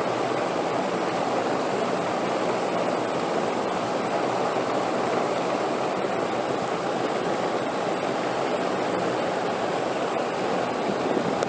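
Steady rushing wind, an even noise without gusts or pauses, with a faint steady high-pitched tone above it.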